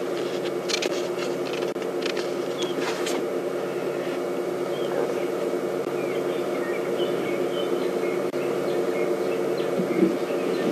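Steady low hum with scattered clicks early on and faint short bird chirps in the middle.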